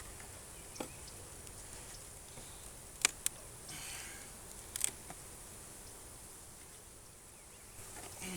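A hive frame and hive tool being handled, giving a few sharp clicks and knocks over a steady background, the loudest about three seconds in and another near five seconds, with a brief scraping rustle between them.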